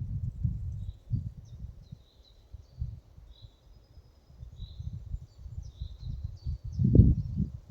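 Forest ambience: small birds chirping faintly and intermittently over a low, uneven rumble that swells and fades, loudest near the end.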